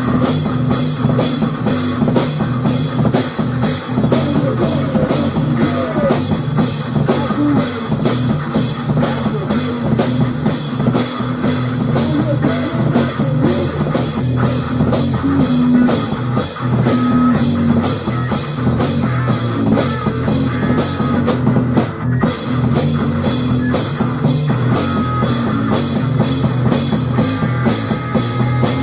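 Loud instrumental rock music: a drum kit keeping a steady beat under guitar, with no vocals.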